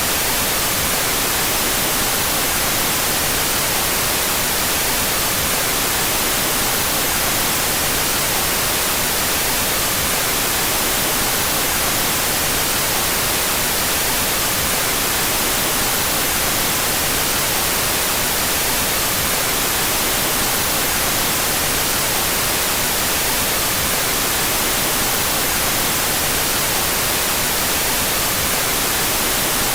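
Steady synthetic white noise, an even hiss that is brightest in the treble, played with its stereo channels out of phase.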